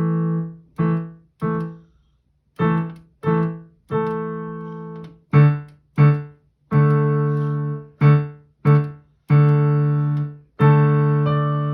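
Piano playing an easy-level solo piece: short, separated chords over a repeated low note, with a brief pause about two seconds in, then longer-held chords later on.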